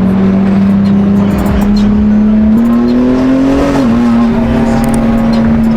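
Car engine running steadily, its pitch climbing slightly about two and a half seconds in and then falling back abruptly just before four seconds.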